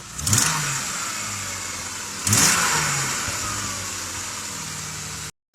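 Car engine revving twice, the pitch rising with each rev and then holding steady, before the sound cuts off abruptly near the end.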